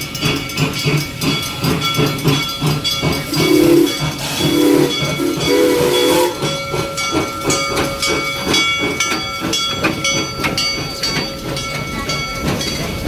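Amusement-park steam train running with a steady rhythmic beat. About three seconds in, its whistle gives three short blasts with a hiss of steam.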